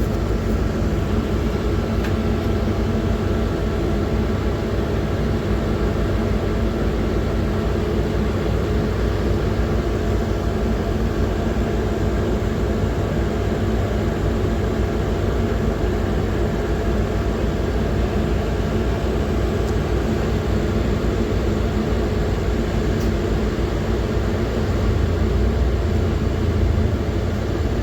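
PAZ-4234-05 bus on the move, heard from inside the passenger cabin: steady engine and road rumble, the low rumble growing a little louder near the end.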